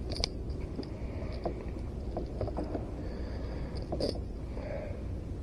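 Light clicks, knocks and scrapes of hands working a fish and a treble-hooked lure free of a towel on a kayak, scattered over a steady low rumble.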